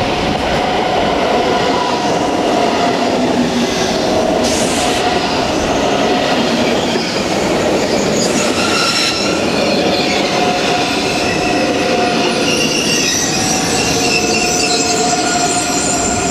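ICE 3 high-speed train rolling past along the platform, with wheel noise and several steady high-pitched squealing tones over the run of the cars. Two short hisses come about four and eight seconds in.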